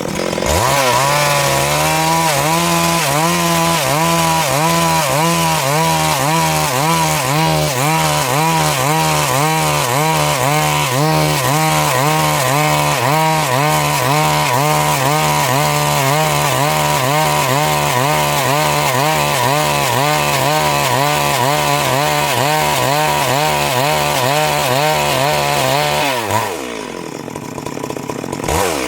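Stihl MS 382 two-stroke chainsaw at full throttle, ripping lengthwise through a Siris log to cut boards, its pitch wavering steadily under load. Near the end the throttle is released and the engine drops back, then revs up again just before the close.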